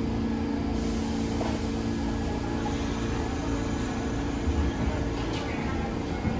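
Subway train running with a steady electric hum of several held tones over a low rumble.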